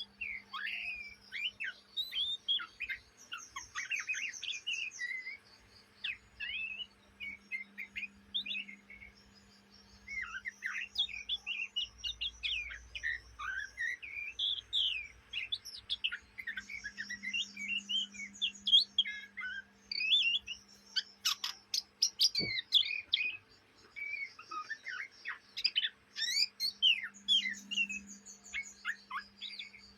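Young oriental magpie-robin twittering without a break: a fast, varied run of short chirps and sweeping whistled notes, the chattering subsong of an untrained juvenile. A faint steady low hum runs underneath.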